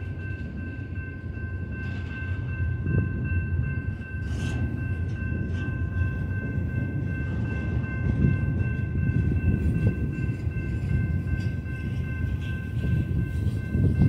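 Long BNSF double-stack container train rolling past: a steady low rumble of wheels on rail with irregular clanks. Several steady high ringing tones run over it throughout.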